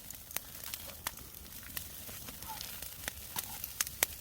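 Wood fire crackling under pork being grilled: irregular sharp pops and snaps over a low, steady hiss.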